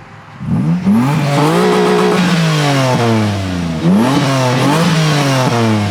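Car engine with a newly fitted X-pipe exhaust revved hard twice: it climbs quickly, holds, drops back, then climbs again and falls away slowly. The exhaust is loud and not raspy.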